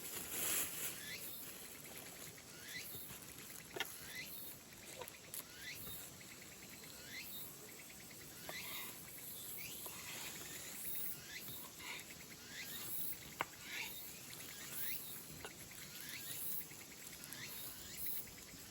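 Outdoor forest ambience: insects trilling in a steady high pulsing hiss, with short rising chirping calls repeating about once a second and a few sharp cracks.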